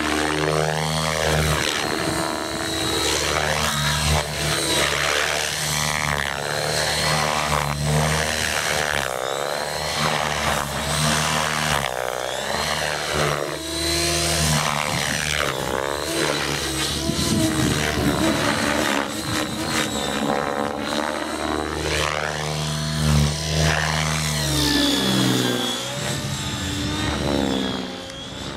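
Align T-REX 700 DFC electric RC helicopter in flight: rotor noise and a high motor whine, rising and falling in pitch as it manoeuvres. Background music with steady low notes plays underneath.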